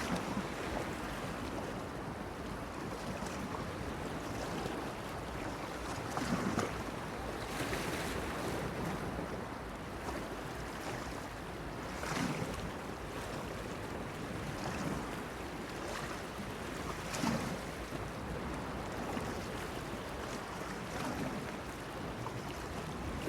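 Sea waves washing and splashing against a stone breakwater: a steady wash with a few louder splashes.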